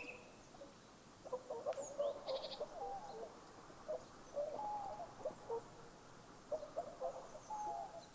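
Birds calling: clusters of short, low clucking and chattering notes come in three bursts. A brief high, rapid trill sounds about two seconds in.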